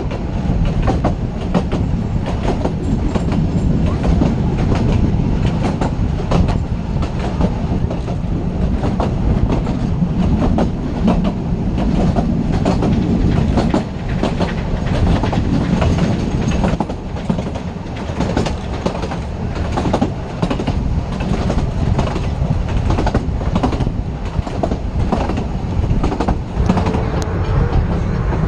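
Narrow-gauge railway carriage running along the track, heard from inside the carriage: a steady rumble with the wheels clicking over the rail joints.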